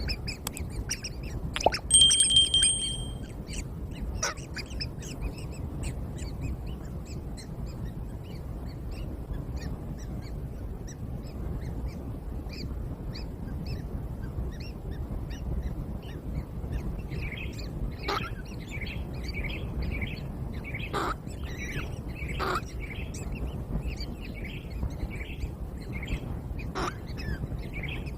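Birds chirping with many short, high calls, thicker in the second half, over a steady low rumble. About two seconds in, a brief steady whistle-like tone is the loudest sound.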